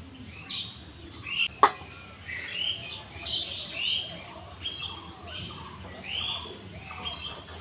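Birds chirping in repeated short, arched notes, with a single sharp click about one and a half seconds in.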